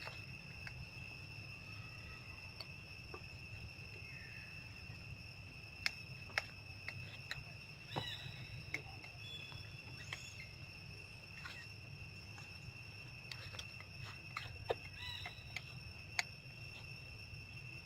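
Steady, high-pitched insect drone holding one unbroken tone with a fainter higher overtone. Scattered sharp clicks and a few short chirps sound over it.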